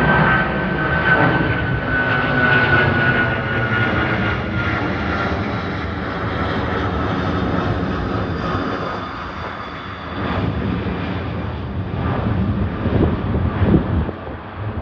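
Boeing 747's jet engines at takeoff power: a loud, dense rumble with a high whine that falls slowly in pitch over the first few seconds. The level dips briefly about ten seconds in, then comes back uneven.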